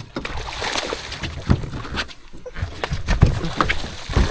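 Irregular knocks and thumps around a small fishing boat, with water sloshing, while a hooked barramundi is fought.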